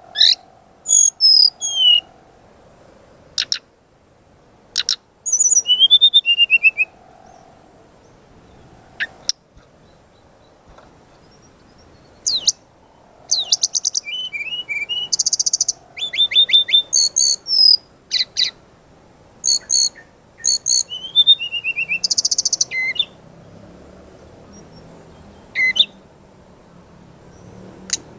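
Brown-chested jungle flycatcher (sikatan rimba dada coklat) singing in loud, rapid volleys of sharp high notes, quick rising whistles and short buzzy trills, broken by brief pauses.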